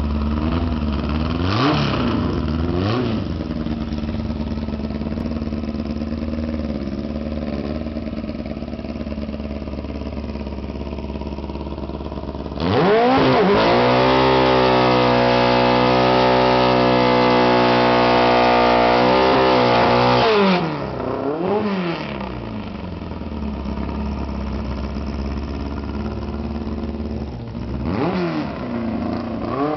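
Air-cooled Volkswagen Beetle flat-four drag engine running, blipped twice, then held at steady high revs for about eight seconds during a burnout before dropping back. It is blipped again just after, and revved once more near the end.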